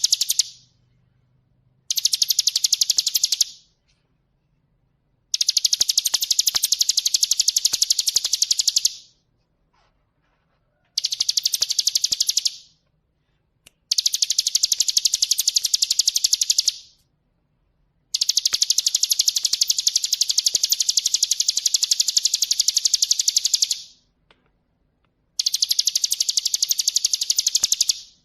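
Ciblek gunung (hill prinia) song: long bouts of very fast, high repeated notes, some lasting several seconds, broken by a second or two of silence between bouts.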